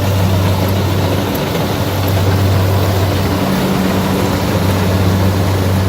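Kubota DC60 combine harvester running steadily while harvesting rice: a constant low engine hum over a dense mechanical noise from its working machinery.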